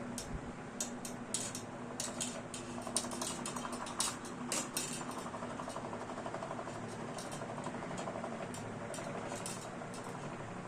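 A chrome Ventisol VP-60 160 W wall fan running, with a steady motor hum and rush of air. A run of light clicks and rattles comes over the first half, and a few more near the end.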